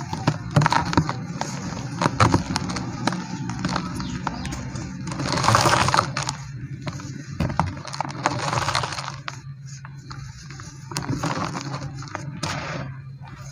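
Chunks of dry white cement crumbling and crushing: irregular crunches, crackles and scrapes, with louder grinding stretches a little past midway and again about two thirds in, over a steady low hum.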